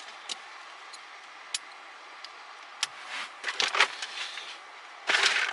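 Nylon zip ties being fastened around a car's ignition wiring harness under the dashboard: scattered sharp clicks, a cluster of clicks and rustling about three seconds in, and a loud burst of rustling near the end.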